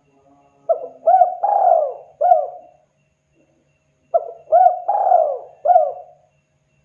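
Spotted dove (tekukur) cooing: two phrases of four coos each, the third coo in each longer than the others, with a pause of about a second and a half between phrases.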